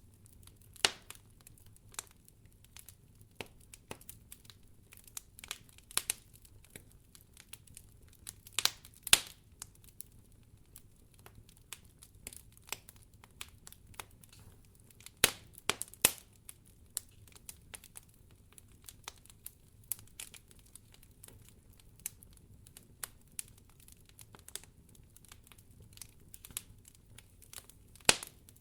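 Wood fire crackling in a fireplace: irregular sharp pops and snaps over a low steady background, with a few louder pops about nine seconds in, around fifteen to sixteen seconds, and near the end.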